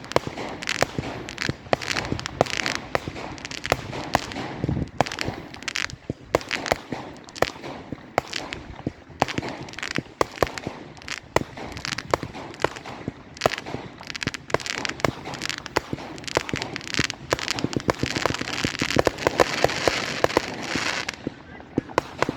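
Fireworks going off without a break: a rapid string of bangs and crackles over a steady hiss, thickening into a dense barrage near the end before briefly easing.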